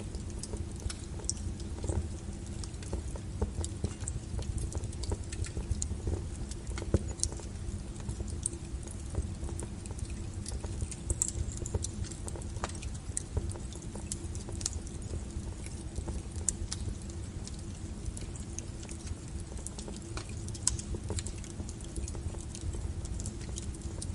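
Wood fire burning: a steady low rumble of the flames with frequent sharp crackles and pops of burning firewood, one louder pop about seven seconds in.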